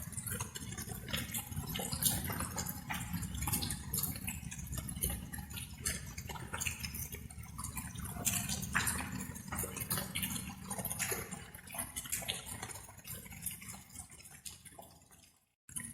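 Light rain: dense, irregular drops of water dripping over a steady low rumble. The sound fades, cuts to silence for a moment near the end, then starts again.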